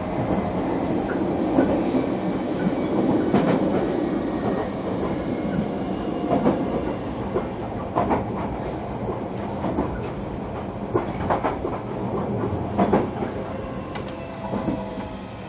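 Onboard running sound of a JR Kyushu 305 series electric train, heard in the motor car: steady wheel and track rumble with sharp clicks over rail joints. Near the end a thin pitched whine from the VVVF inverter and traction motors comes in as the rumble eases, with the train slowing for the next station.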